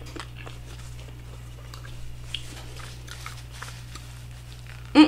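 Close-miked chewing and wet mouth clicks from someone eating a soft shrimp or lobster taco, over a steady low electrical hum. Just before the end comes one brief, loud voiced sound from the eater.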